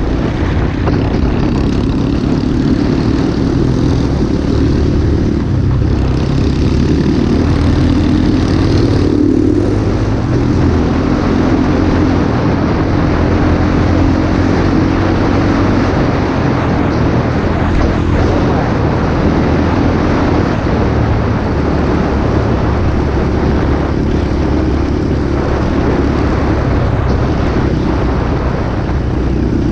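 Small pit bike engine running under way, steady throughout, its pitch drifting slowly up and down with the throttle.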